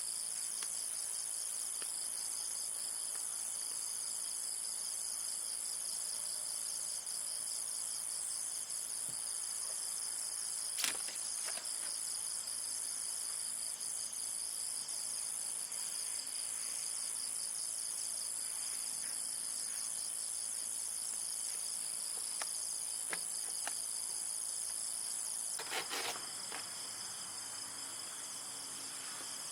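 A steady, high-pitched chorus of insects chirring, with a single sharp click about eleven seconds in and a brief cluster of knocks near the end, where the chorus changes.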